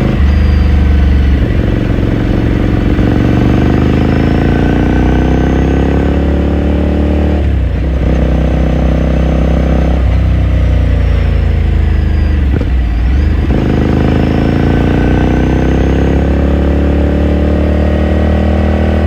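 Ducati Scrambler Sixty2's 399 cc air-cooled L-twin exhaust heard from the rider's seat. The engine rises in pitch as the bike accelerates and breaks off at a gear change about seven seconds in. The pitch falls as the rider slows around ten to thirteen seconds in, then climbs again as the bike pulls away.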